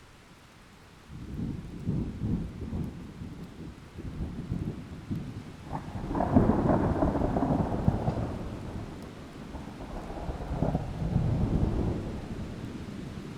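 Thunder rumbling over heavy rain. A first roll breaks in suddenly about a second in, a sharp crack near the middle opens the loudest peal, and a third rumble swells and fades near the end.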